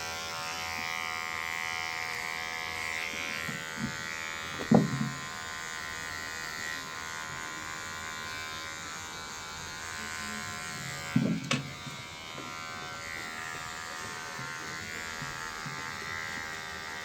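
Cordless electric hair clipper running with a steady buzz as it cuts hair, with a couple of short knocks about five and eleven seconds in.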